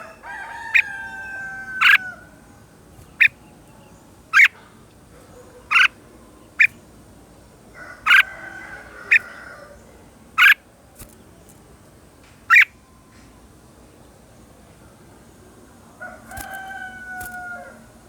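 Red-whiskered bulbul giving short, sharp, loud call notes every second or so. A rooster crows three times in the background: at the start, about eight seconds in, and again near the end.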